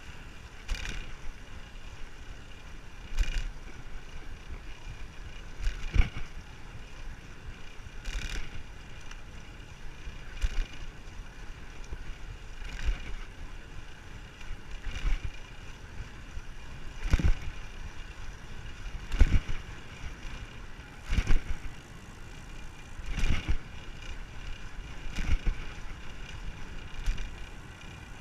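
Wind rushing over the microphone of a moving road bicycle, a steady hiss broken by loud gusty bursts about every two seconds.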